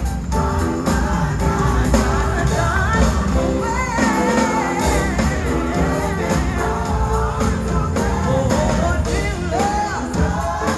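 Live gospel music: voices singing over a full band, loud and continuous.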